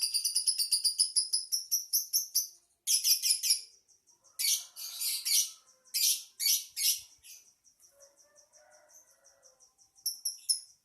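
Lovebird singing: a fast, high-pitched chattering trill that breaks off after about two and a half seconds, followed by a few longer, harsher high calls, a quieter stretch, and the rapid trill starting again near the end.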